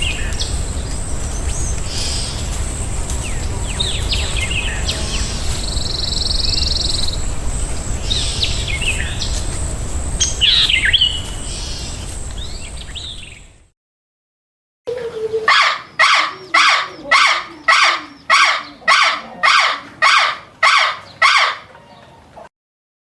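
Small birds chirping and tweeting over a steady outdoor background hiss and rumble. After a short break, a separate run of about a dozen loud, evenly spaced calls, roughly one every half second or so.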